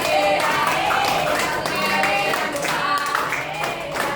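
Several voices singing or chanting together while hands clap.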